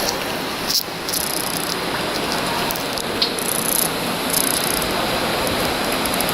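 Creek water rushing steadily, with scattered short clicks and rattles on top.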